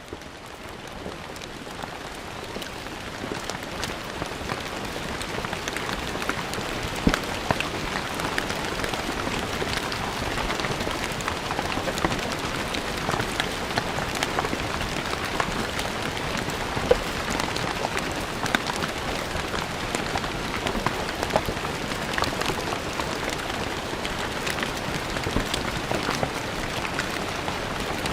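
Steady rain falling on stone paving, an even hiss dotted with the sharp taps of single drops, fading in over the first few seconds.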